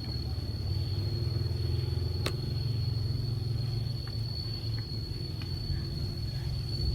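Steady low rumble under a constant thin high-pitched whine, with one sharp click about two seconds in and a few faint ticks later.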